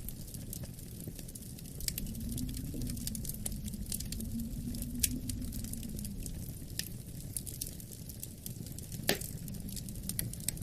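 Wood fire crackling with many small sharp pops over a low steady rumble of wind. A faint wind moan swells and fades between about two and six seconds in, and one louder pop comes near the end.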